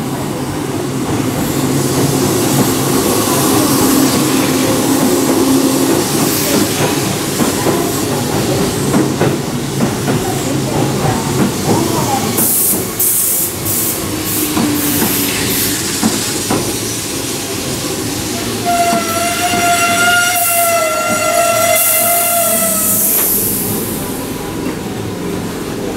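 Keihan 2200-series electric commuter train pulling into the platform and braking to a stop: running rumble and wheel clatter, then a wavering high squeal of the brakes for a few seconds near the end, and a short hiss of air as it comes to rest.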